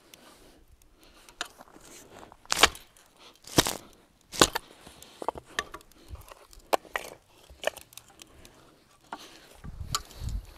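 Irregular sharp knocks and clicks, a few louder hits among many lighter ones, with a short low rumble near the end.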